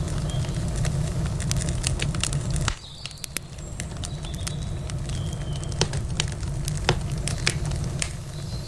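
Wood campfire crackling: irregular sharp pops and snaps over a steady low rumble. The rumble and the overall level drop abruptly about three seconds in, and the crackling carries on.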